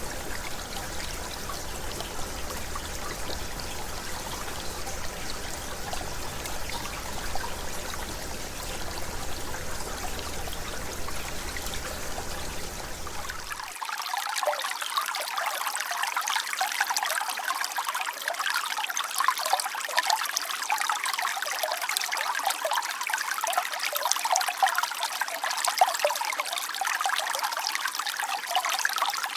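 Shallow mountain river babbling over stones. A little after halfway it changes abruptly to a brighter, splashier trickle with the low rumble gone.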